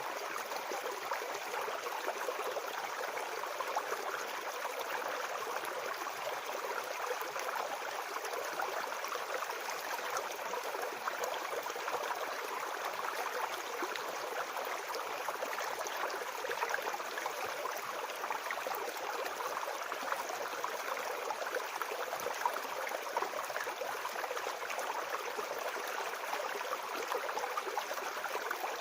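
Small forest brook babbling: steady rushing and gurgling of shallow running water.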